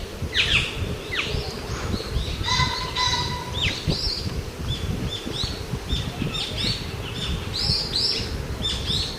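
Birds chirping: quick, repeated high calls, some sweeping downward in pitch and others short arched notes, with a steady low rumbling noise underneath.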